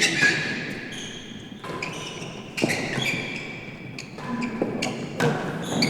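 Real tennis rally: sharp knocks of the ball off the racquets and the court walls, a few seconds apart, with short high squeaks between them, likely the players' shoes on the court floor.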